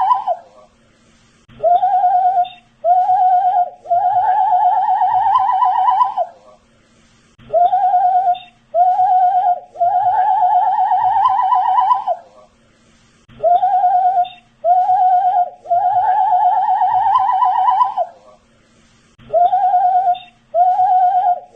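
A man whistling the same short phrase over and over: two short notes, then one long wavering note, with a silent pause of about a second and a half before each repeat, about every six seconds.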